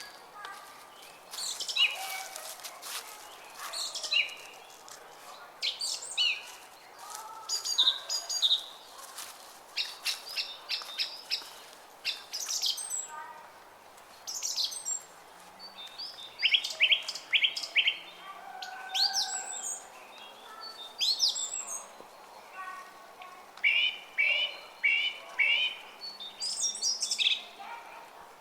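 Several small songbirds chirping and singing in short, quick repeated phrases, one after another, over the faint steady murmur of a brook.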